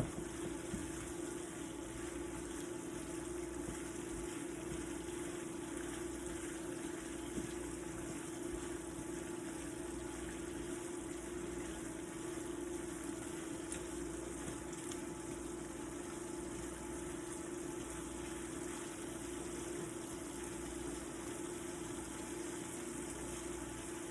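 Steady machine hum with a constant hiss underneath, holding an even pitch without change, like a running kitchen appliance motor.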